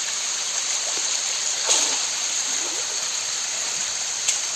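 Small waterfall splashing into a stream pool with a steady rush; its flow is low in the dry season. Two short sharp clicks or knocks cut through it, about a third of the way in and near the end.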